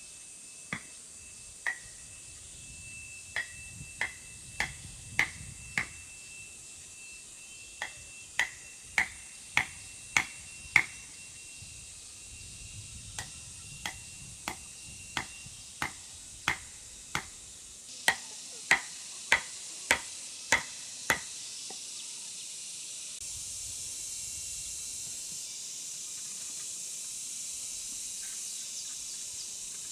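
Sharp strikes, each with a short metallic ring, in runs of five or six about 0.6 s apart and separated by short pauses, like a hand tool hitting repeatedly. The strikes stop a few seconds before the end, leaving a steady high hiss that grows louder near the end.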